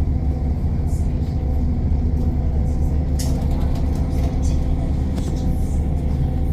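Passenger train running, heard from inside the carriage: a steady low rumble with a constant hum and a few faint rattles and clicks.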